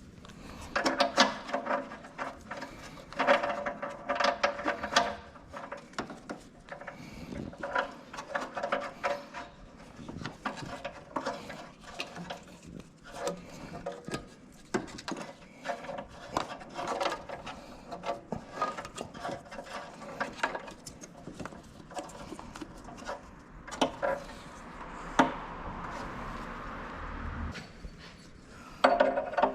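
Hand-tool work on metal car parts: irregular bursts of scraping strokes and clicks with a ringing metallic tone.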